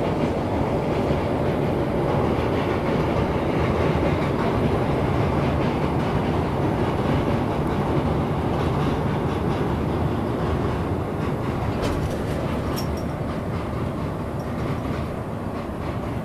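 Vande Bharat Express electric trainset running past on a steel truss rail bridge: a steady rumble of wheels on rail. A few sharp clicks come about twelve seconds in, and the sound grows a little quieter near the end.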